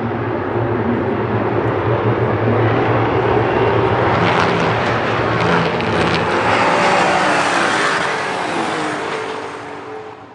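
Race car passing at speed on a circuit: its engine grows louder, peaks in the middle, then drops in pitch and fades away near the end.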